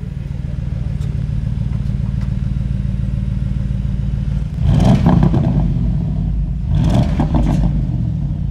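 Porsche Panamera Turbo S's 4.0-litre twin-turbo V8 idling with a steady low rumble from its exhaust, then revved briefly twice, about halfway through and again two seconds later.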